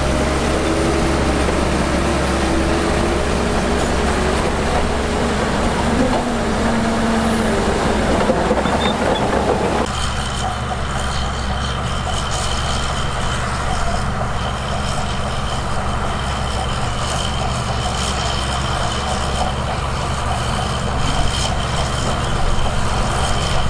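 Heavy diesel earthmoving machinery running steadily. The sound changes abruptly about ten seconds in, and after that a thin high whine runs alongside the engine.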